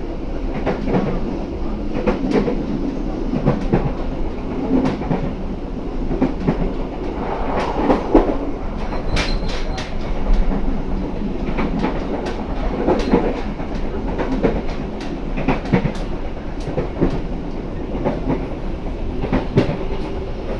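Walahar Express passenger train running on the rails: a steady rumble with the wheels clacking over rail joints at irregular intervals, and a brief faint high squeal about nine seconds in.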